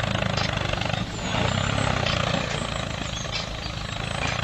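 Small tractor engine running steadily with a rapid low chugging. It dips briefly about a second in and runs a little softer in the second half.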